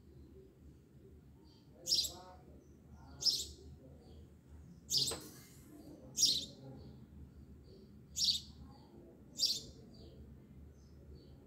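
A bird chirping: six short, high-pitched chirps at uneven gaps of one to two seconds, over a low steady hum.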